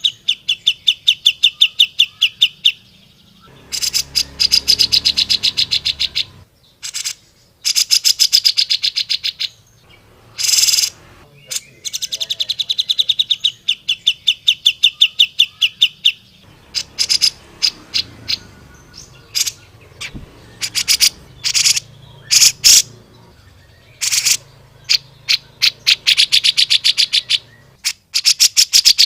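Grey-cheeked bulbul (cucak jenggot) singing in long, rapid chattering trills of sharp, high notes, about nine or ten a second, broken by short gaps and scattered single loud notes.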